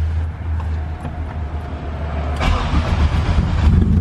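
Straight-piped, turbocharged Honda K-series engine being started and running at idle, louder and fuller from about two and a half seconds in. It runs normally on its newly fitted 4-bar MAP sensor.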